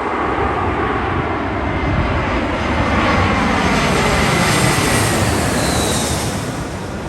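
Airliner's engines passing close by, a heavy roar that builds to a peak about midway and eases off toward the end, with a high whine gliding down near the end.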